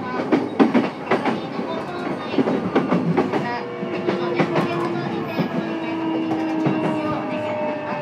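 JR East E233-series electric train running, heard from inside a motor car. The wheels clack over rail joints and points in the first few seconds, then steady tones from the traction motors carry on over the running noise.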